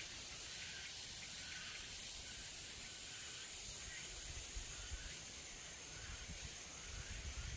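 Faint outdoor ambience: a steady high-pitched insect hiss with a short call repeating about every two-thirds of a second, over an uneven low rumble.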